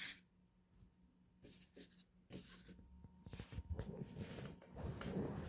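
Faint, irregular scratchy rustling of hands handling a small object, starting about a second and a half in.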